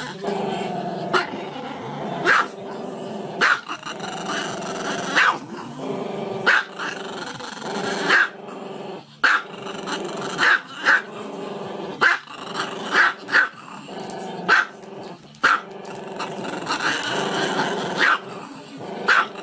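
A small black-and-tan dog, head raised, keeps up a drawn-out pitched growling vocalisation, broken by short sharp barks about once a second.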